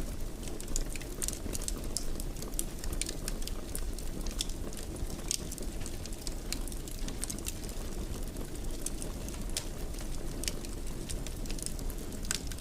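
Fireplace fire crackling: many small sharp pops at irregular intervals over a steady low rumble of burning.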